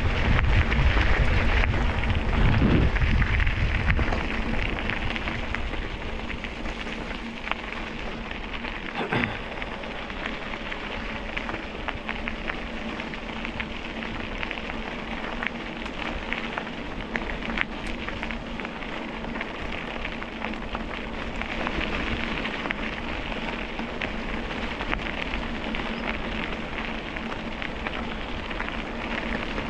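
Steady crackling and rolling noise of a ride along a canal towpath, with heavy wind rumble on the microphone for the first four seconds.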